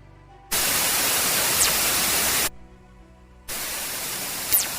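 Two bursts of loud static hiss, each about two seconds long, switching on and off abruptly; the second is quieter, and each carries a faint falling whistle. It is a sonified space-probe radio recording, presented as the sound of fast radio bursts. A faint steady hum fills the gap between the bursts.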